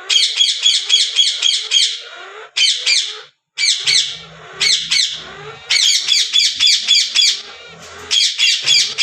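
Green Indian ringneck parakeets screeching in fast runs of harsh, repeated squawks, about six a second, with a brief break a little past three seconds in. The calls are loud, agitated distress calling, the birds upset at the chicks being taken away.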